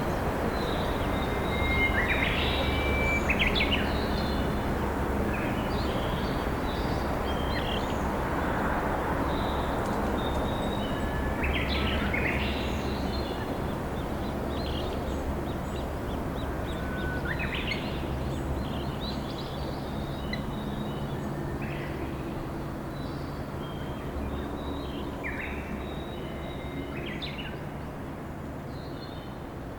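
Steady rush of a flowing river with wild birds singing over it, short chirps and call phrases scattered throughout, and a faint low hum underneath. The whole sound slowly fades over the last ten seconds or so.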